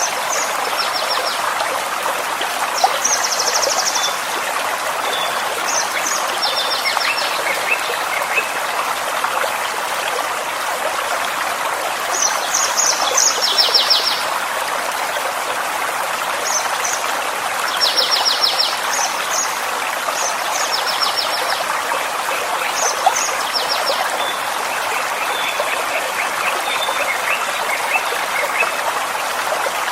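Small forest stream running steadily, with songbirds calling over it in short high-pitched chirps and rapid trills every few seconds.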